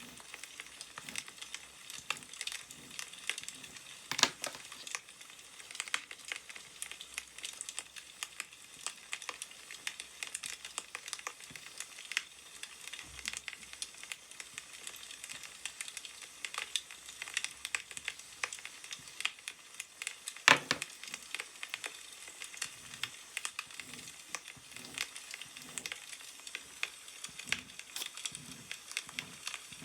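Burning firewood crackling: a steady run of small irregular pops and snaps, with a few louder pops, the loudest about two-thirds of the way through.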